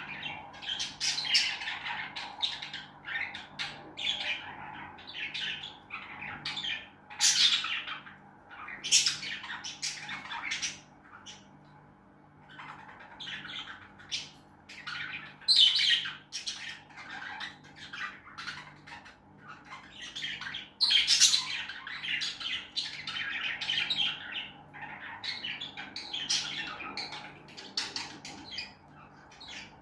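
Lovebirds chattering: a continuous run of short, shrill chirps and squawks, with louder squawks every few seconds.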